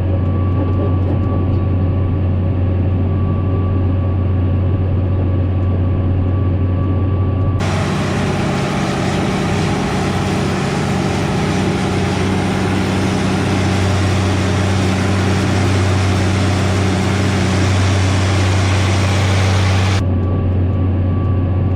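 Tractor engine running steadily with a low drone. About eight seconds in the sound switches abruptly to a harsher, hiss-filled engine noise, and near the end switches just as abruptly back to the plain drone.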